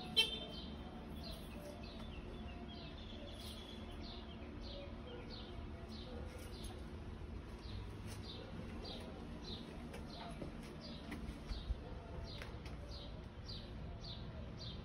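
A bird chirping over and over, short high descending chirps about twice a second, faint over a low background hum; a sharp click sounds just after the start.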